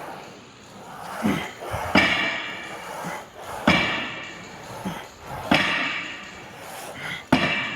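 Hack squat machine clanking metallically with each rep, four sharp clanks with a ringing tail about two seconds apart.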